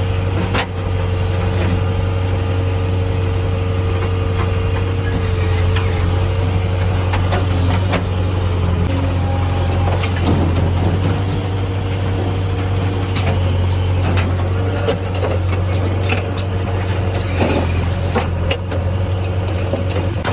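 Diesel engine of earth-moving machinery running steadily, with scattered clanks and knocks. A steady higher whine sounds through roughly the first five seconds.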